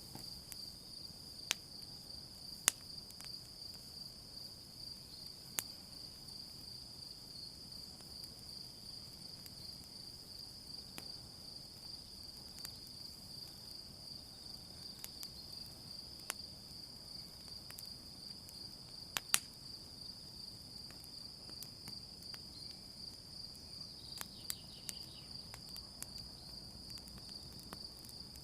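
Campfire crackling, with scattered sharp pops, a couple of them louder, over a steady high chirring of crickets.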